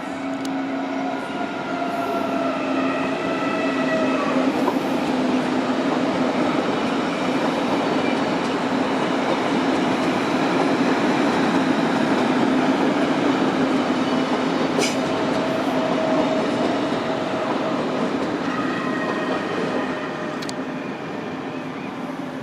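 A train passing through the station, its rolling noise building over about ten seconds and fading near the end, with a steady hum under it and faint whining tones at the start and near the end.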